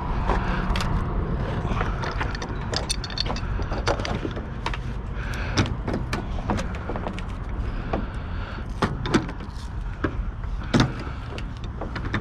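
Irregular metallic clicks, clinks and knocks of a hand tool being worked on scrap metal, over a steady low rumble.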